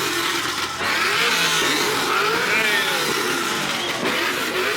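Car engine revving repeatedly, its pitch rising and falling several times.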